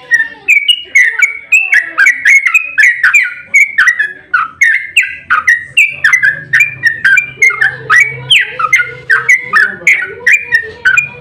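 Yellow-vented bulbul (trucukan) singing a long, rapid 'ropel' run of bubbling, chattering notes, about three to four a second, with no pause until it stops near the end.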